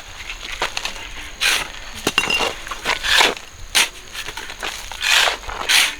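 Shovel scraping and scooping through a sand-and-cement mix for concrete, in about five separate strokes with small clinks of gravel between them.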